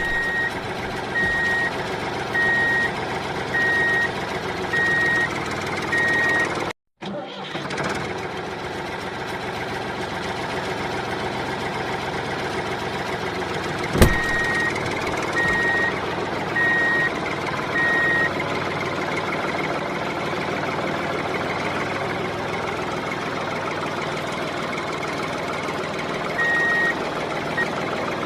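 Small motor and gearing of a DIY mini tractor model running steadily, with a high electronic beep about once a second in stretches, like a reversing alarm. A sharp click comes about halfway through.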